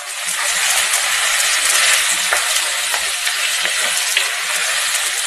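Onions, tomato and ginger-garlic paste sizzling steadily in hot oil in a pot, stirred with a wooden spatula.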